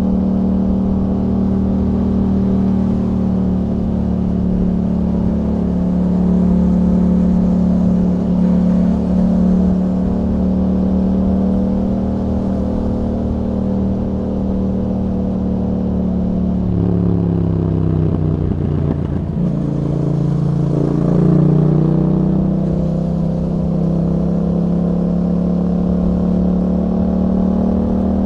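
2021 Yamaha MT-07's parallel-twin engine running under way through an Akrapovič exhaust fitted with a dB killer, holding fairly steady revs. About two-thirds of the way in the engine note drops and wavers, then climbs again.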